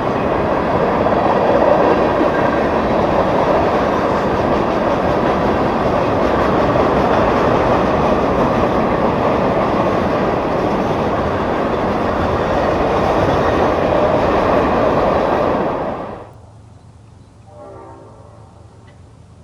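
A train passing close by: a loud, steady rumble and clatter of wheels on the rails. About sixteen seconds in it cuts off abruptly. A much fainter locomotive horn then sounds near the end.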